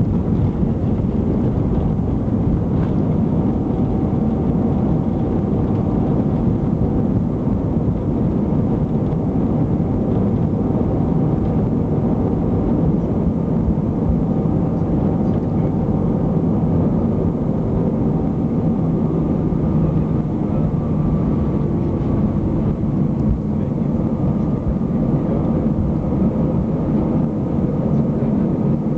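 Steady cabin rumble of an Airbus A320, engine and airflow noise heard from inside the passenger cabin, with a faint steady whine over it.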